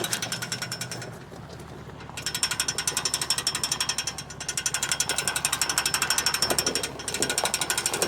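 Fast, even mechanical clicking like a ratchet pawl, dropping away for about a second near the start and briefly again near the end.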